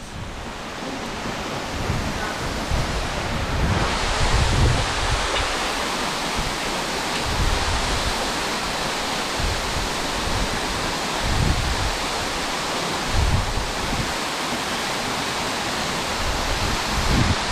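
Waterfall rushing steadily, with irregular low rumbles of wind on the microphone. The rush turns brighter and fuller about four seconds in.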